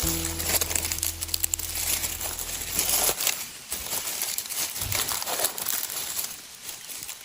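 Crinkling, crackling rustle of plants being handled and picked by hand, with many small irregular snaps. A low steady tone sounds under it for the first three seconds, then stops.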